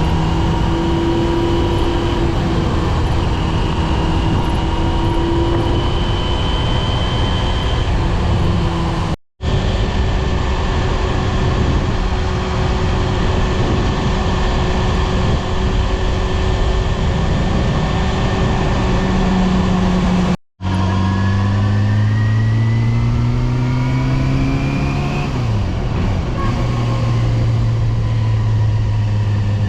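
Yamaha FZR250's inline-four engine running under way, its tones over a loud rushing noise. After the second of two sudden brief dropouts the revs climb, fall back at a gear change, then settle into a steady cruise.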